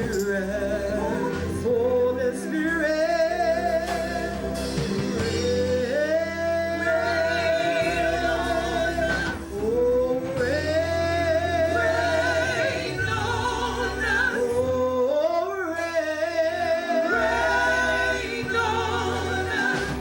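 Gospel praise singing with live band accompaniment: voices slide up into long held notes with vibrato over a steady bass line.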